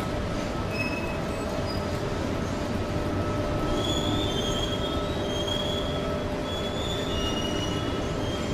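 Machinery running with a steady rumble and hum, with short high-pitched squeals from about halfway through.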